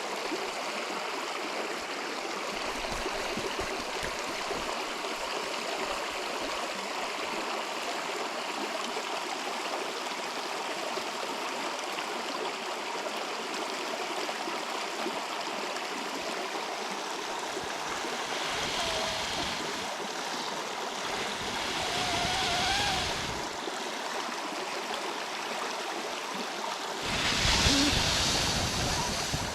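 A river flowing steadily, an even rushing of water. The noise swells twice, the louder swell coming near the end.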